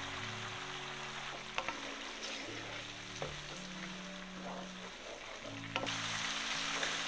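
Mutton masala with tomatoes and green peppers sizzling in a nonstick frying pan. A wooden spoon clicks and scrapes against the pan a few times, and the sizzle gets louder near the end as the mixture is stirred.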